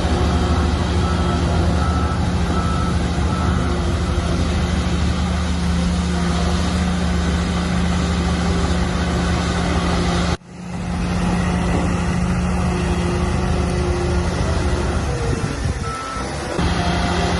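Heavy diesel engine of earthmoving machinery running steadily under load. A reversing alarm beeps in the first few seconds. The sound cuts off abruptly about ten seconds in and then comes back.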